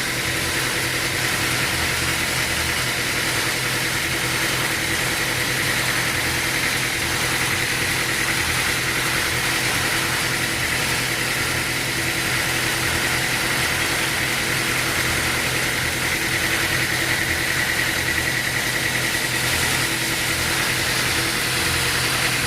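Sawmill machinery running steadily: a constant engine-like hum with a steady high whine over it, never changing in level.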